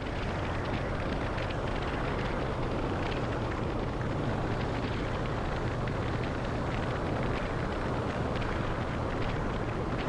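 Honda CB500X's parallel-twin engine running steadily while riding, under heavy wind noise on the microphone.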